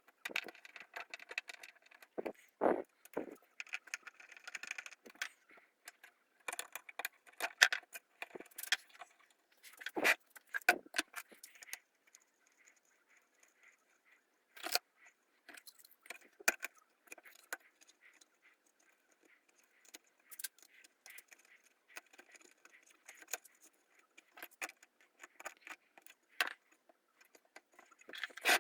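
Irregular clicks, taps and light metallic clinks of small hard parts and tools being handled and set down during hand assembly work, with short quiet gaps between them.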